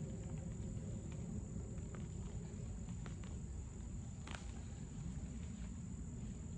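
Steady high-pitched chorus of crickets or similar insects over a low, steady rumble, with a few soft clicks and rustles, the loudest about four seconds in.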